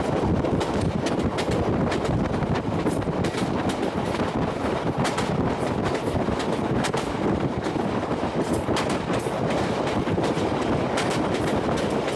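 Train running along the track: a steady rumble, with the wheels clicking sharply over rail joints many times at uneven spacing.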